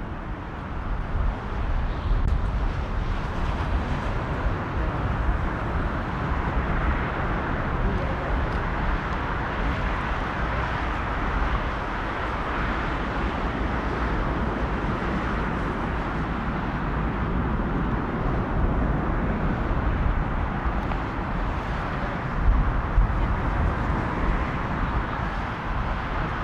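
Boeing 777 jet engines running, a steady, even roar, with wind buffeting the microphone.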